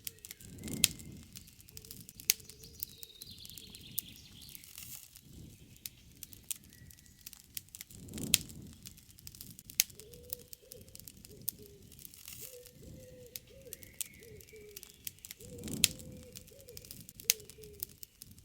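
Wood campfire crackling with frequent sharp pops and a few louder snaps, while birds call faintly.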